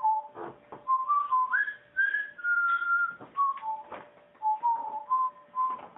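A whistled tune of clean, held notes that step up in pitch to a long high note about two to three seconds in, then step back down, with a few soft clicks between phrases.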